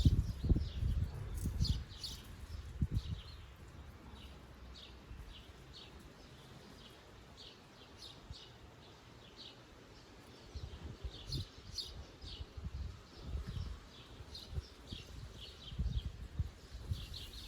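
Small songbirds chirping, a steady run of short, high chirps. Uneven low rumbling gusts come in the first couple of seconds and again through the second half.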